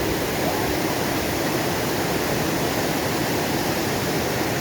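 Waterfall's rushing water, a loud, steady roar of noise with no breaks.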